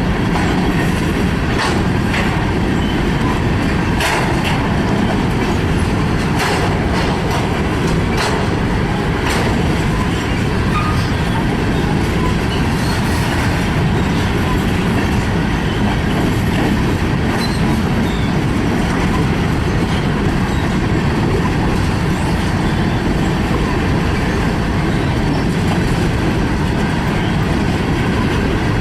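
Freight train cars rolling steadily past, a continuous loud rumble of wheels on rail with a few sharp clicks in the first ten seconds or so.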